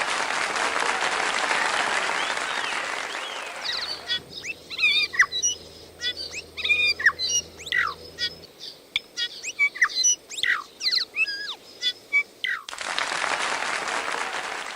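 Applause, then a New Zealand native bird singing a varied run of quick chirps and sliding whistles for about eight seconds, then applause again near the end.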